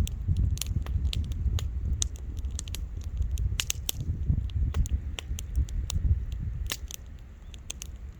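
Wood campfire crackling and popping: sharp, irregular snaps, several a second, over a constant low rumble.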